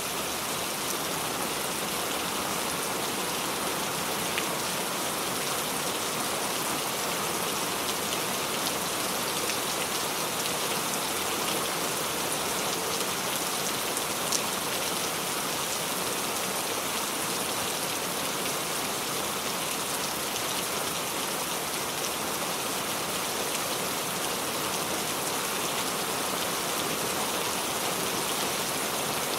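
Steady rain falling on a surface, an even hiss of many drops with a few separate drop ticks standing out.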